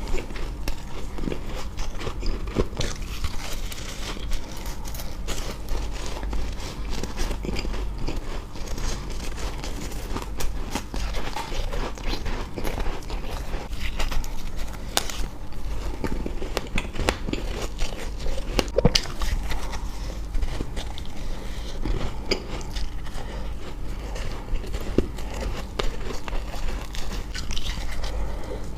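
Close-up crunching and chewing of ice: irregular crisp bites and crackles that keep coming, over a steady low hum.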